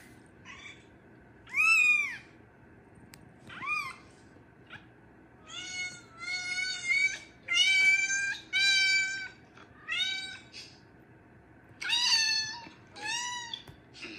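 Cat meowing again and again: short, arched meows, a few spaced out at first, then many in quick succession from about five seconds in.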